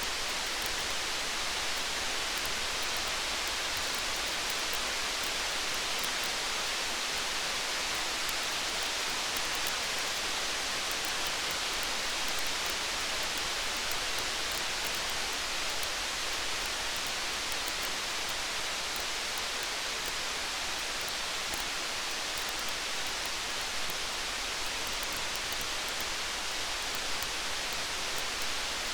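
Steady rain, an even hiss, with faint tiny ticks throughout.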